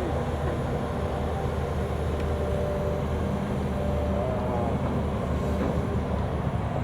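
A steady low mechanical drone with a few steady tones, like a running machine or engine.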